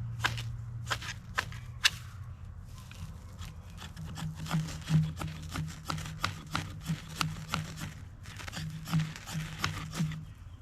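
Ferro rod struck again and again with a scraper: a run of short, sharp scrapes at irregular spacing, coming thicker near the end, as it throws sparks into a tinder bundle to light a fire.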